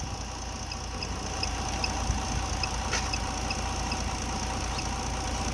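Mitsubishi Galant V6 engine idling steadily, a low even rumble with a faint light ticking repeating about two to three times a second.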